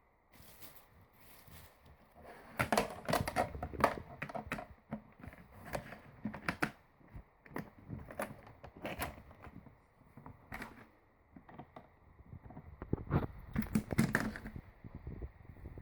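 Irregular clicking and clattering of small hard objects being handled, coming in bunches with short pauses between.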